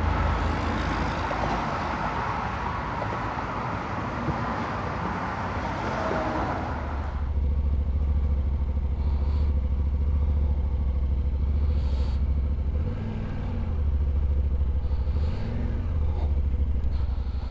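Motorcycle engine running at a steady idle, a low rumble that comes up strongly about seven seconds in, after several seconds of a broad hiss.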